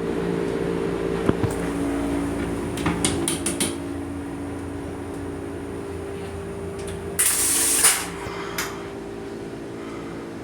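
Steady mechanical hum of a Metro-North Comet IV rail coach heard from inside its small restroom, with a few sharp clicks and knocks around the first few seconds and a short hissing spray a little past the middle.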